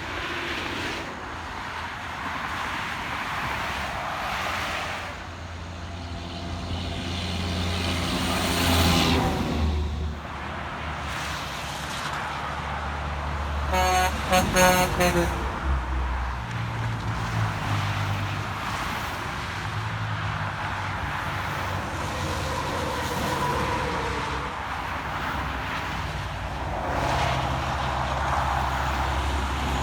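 Road traffic with trucks going by: engines run steadily, one vehicle passes loudly about nine seconds in, and a horn sounds in a few short blasts about halfway through.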